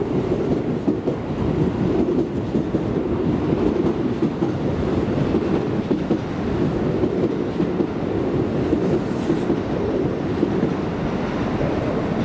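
Keisei Main Line electric train running past the platform: a steady rumble of wheels on the rails, with clatter over the rail joints.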